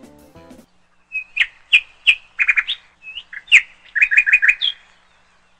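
Bird chirping: a string of short, sharp chirps that ends in a quick run of several, with a little music fading out at the very start.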